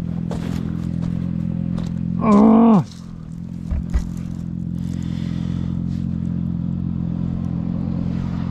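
Motorcycle engine running at a steady speed. About two seconds in, a brief loud sound whose pitch drops sharply cuts in, followed by two knocks.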